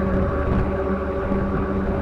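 Steady drone of a vehicle engine with rushing wind and road noise at speed, a few even steady tones held throughout.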